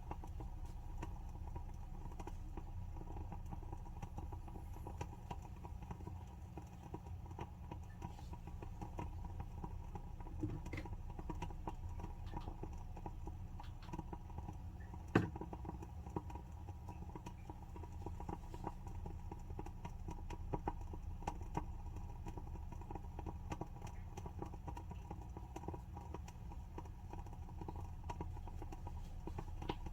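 A WoodWick candle's wooden wick burning with a soft, irregular crackle of small pops, like a tiny wood fire. One louder pop comes about halfway through.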